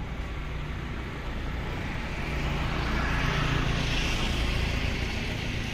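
Motor vehicle engine hum with road and wind noise, swelling to its loudest three to four seconds in and then easing off.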